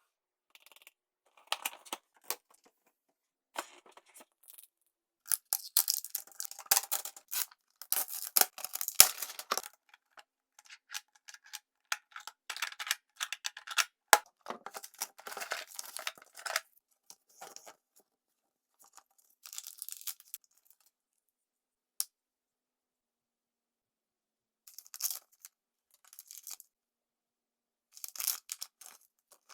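Crinkling and tearing of small packaging, with light clicks from tiny plastic toy items being handled, coming in irregular bursts with silent gaps between them.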